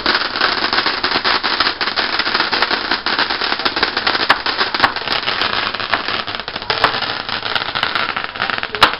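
Fireworks crackling in a dense, rapid string of small pops, with a louder crack near the end.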